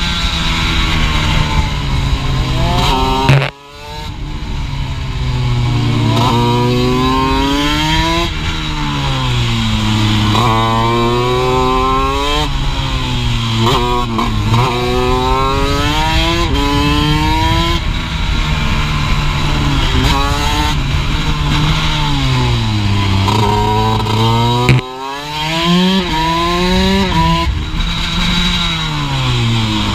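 A Honda CR125 two-stroke single-cylinder engine in a small racing motorcycle at full throttle, its pitch climbing through the gears and dropping back at each upshift, then falling through downshifts into corners. The sound drops away sharply twice, a few seconds in and again about five seconds before the end.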